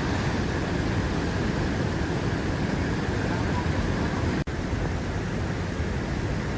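Steady rushing roar of a large waterfall, a dense even noise heaviest in the low end, broken by one momentary dropout about two-thirds through.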